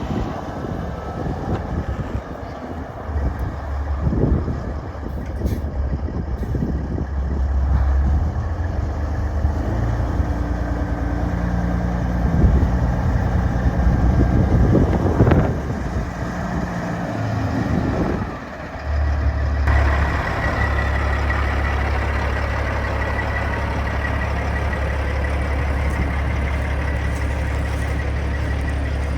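2007 Peterbilt 379 semi truck's diesel engine running. Its speed shifts up and down through the first half, with a brief rev about halfway, then it settles into a steady run for the last third.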